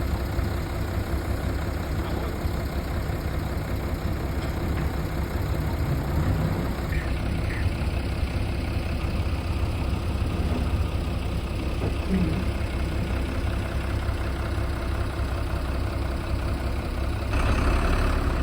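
Heavy diesel engine running steadily with a deep low rumble, growing louder near the end.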